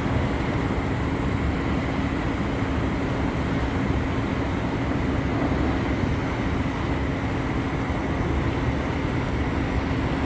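Steady mechanical drone with a constant low hum over an even rushing noise.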